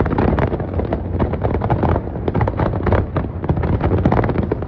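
Fireworks going off in a dense, continuous barrage: many quick cracks and bangs overlapping, over a steady low rumble.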